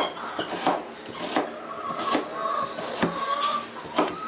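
A series of sharp knocks and clatters, about one every second, from handling apples and carrots at a kitchen counter.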